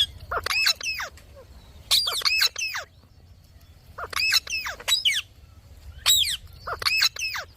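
Indian ringneck parrot giving high-pitched calls that sweep up and down in pitch, in four short bursts about two seconds apart.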